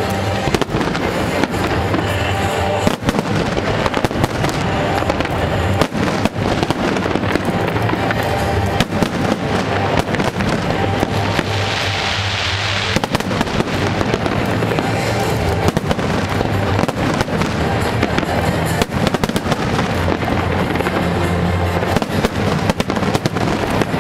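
Aerial fireworks show: shells bursting in rapid, continuous bangs, with music playing underneath. About halfway through comes a brief stretch of hissing.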